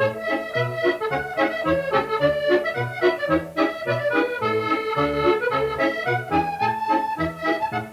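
Accordion playing a tune from a medley: a melody line over a steady, even rhythm of bass notes and chords.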